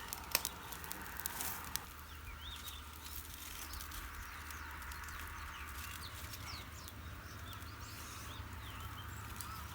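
Birds chirping: a scattered string of short, high calls over a low steady background.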